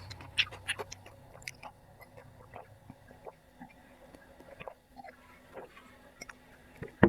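A person chewing food close to the microphone: scattered soft mouth smacks and wet clicks, busiest in the first second and then sparser, with one sharper click near the end.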